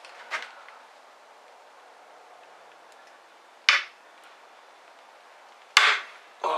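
Two sharp metallic clanks about two seconds apart, from a wrench on the nozzle nut of a Cummins diesel fuel injector as the very tight nut is cracked loose.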